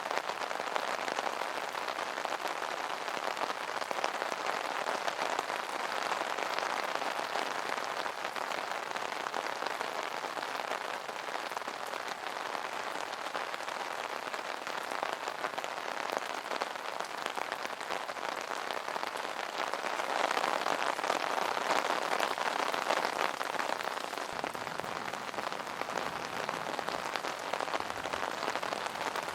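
Rain pattering steadily on an umbrella canopy, a dense even patter of drops, swelling slightly for a few seconds past the middle.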